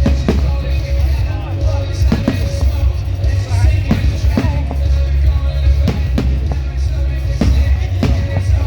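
Loud music with a heavy bass line, with sharp firework bangs at uneven intervals, about one a second.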